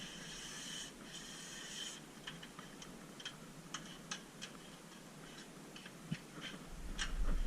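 Two short hissing bursts from an air-powered rust-proofing spray gun, followed by a string of light clicks and taps.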